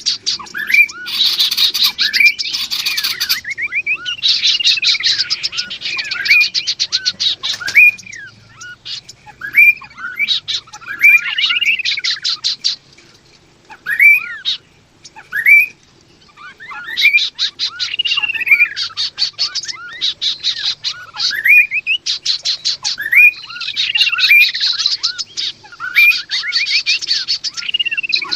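Kaso-kaso birds, a male and a female, calling in repeated phrases: arching, swooping whistled notes mixed with fast dry rattling trills. The phrases come in bouts, with a short pause about halfway through.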